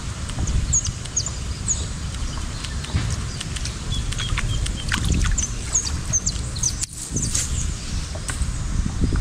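Small birds chirping in short repeated high notes over a steady low rumble.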